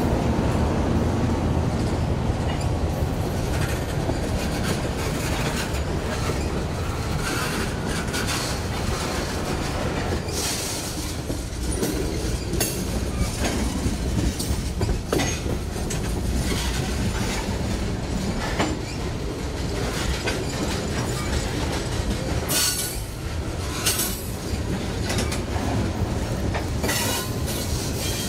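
A train's cars rolling past, a steady rumble with wheels clicking over rail joints and brief bits of wheel squeal.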